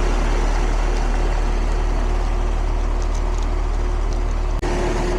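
Residential central air-conditioner condensing unit running: a steady compressor hum under the even rush of its condenser fan. The system is low on R-410A refrigerant from a leak.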